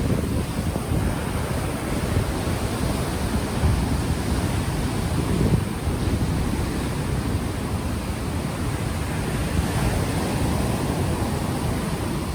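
Gentle ocean waves washing ashore, a continuous surf noise that swells softly now and then, mixed with the low rumble of wind buffeting an unshielded microphone.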